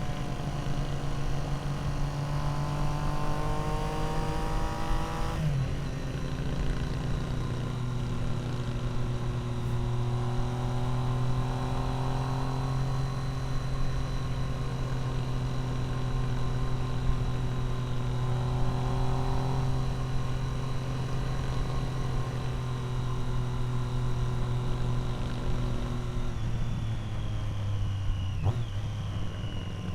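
Triumph Street Triple R's inline three-cylinder engine through an Arrow exhaust, under way: the revs climb for about five seconds, drop suddenly, then hold a steady cruising note that falls away near the end.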